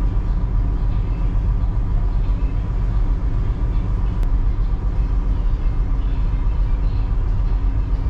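Steady low rumble of a large passenger ship underway, heard aboard, with a faint steady hum over it.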